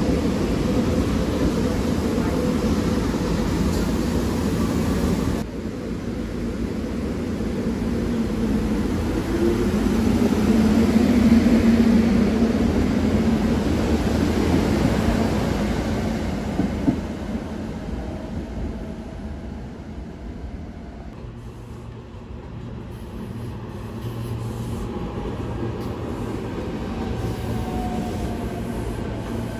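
SEPTA Regional Rail electric train rolling past close by, a dense rumble of wheels on rail that swells around ten to thirteen seconds in, then fades away. The level drops abruptly about five seconds in. In the last third a quieter steady electric hum with faint falling tones comes from a second SEPTA electric train.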